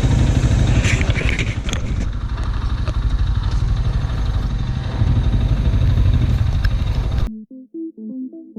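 Gilera SMX Adventure 250 motorcycle engine running steadily with a low rumble, mixed with wind and road noise. It cuts off abruptly about seven seconds in, and synthesizer and piano music with short notes begins.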